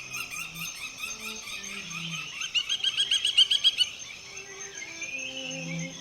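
Songbirds singing and chirping, with one bird's loud, rapid trill of about eight notes a second from about two and a half seconds in to four seconds. A thin, steady high tone and faint, low held notes run underneath.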